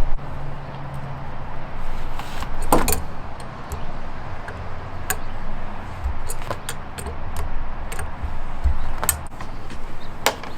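Scattered light metallic clinks and taps of tools and parts being handled while working on a condenser fan motor, over a steady low hum.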